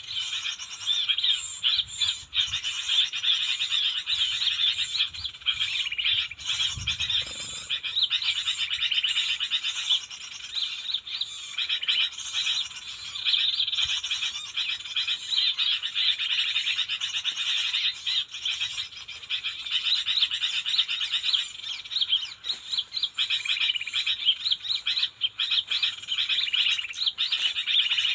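A dense, unbroken chorus of small animal calls, rapid chirping and trilling, with a brief low thump about seven seconds in.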